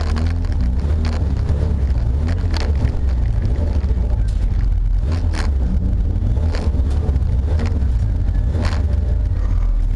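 Racing saloon car heard from inside the cabin: engine and drivetrain running with a heavy, steady low rumble. Irregular sharp knocks and rattles come every second or so.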